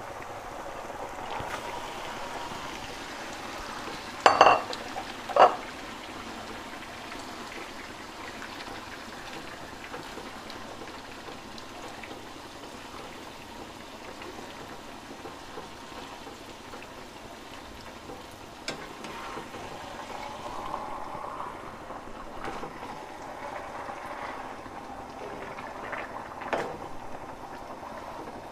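Chicken in green hariyali masala sizzling in a metal pot with half-fried onions, cooking without added water, as it is stirred with a slotted metal spoon. The spoon or bowl knocks sharply against the pot twice about four and five seconds in, with a few lighter knocks later.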